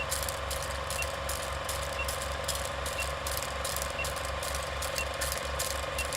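A machine running steadily with an even low pulsing, and a short high beep about once a second.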